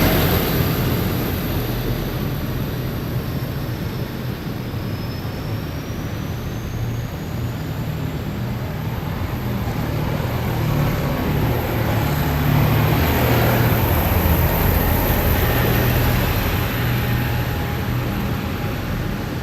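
Heavy military vehicles' diesel engines running as they drive past on a city street: one fading away at the start, the next growing louder and passing about twelve to sixteen seconds in, then easing off.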